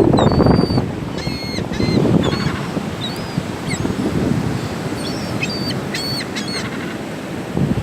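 A flock of gulls calling: many short, high cries, several at a time, over a steady rushing background of wind and surf.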